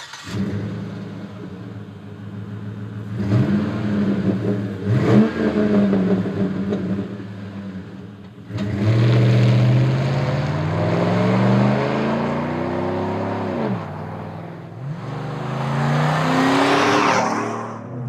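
A GM 5.3L V8 through a Flowmaster American Thunder cat-back exhaust with a Super 40 muffler. It idles, gets two short throttle blips, then twice pulls up through the revs, the pitch climbing over several seconds before falling back.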